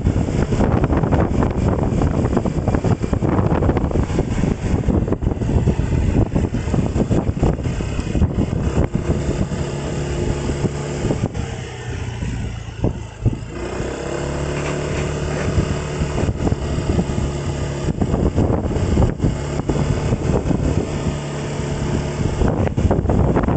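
Road vehicle on the move: wind rushing over the microphone, easing off about halfway through, after which a steady engine hum with an even pitch comes through before the rush builds again near the end.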